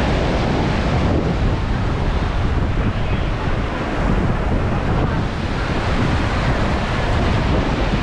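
Steady wind buffeting the microphone over the wash of Atlantic surf breaking on the beach.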